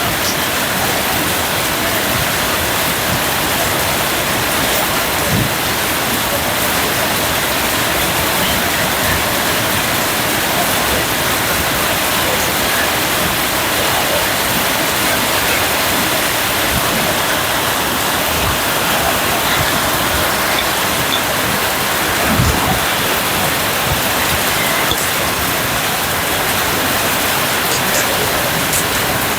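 Steady rain falling, an even, dense hiss, with a few low thumps of heavier drops now and then, the loudest about 22 seconds in.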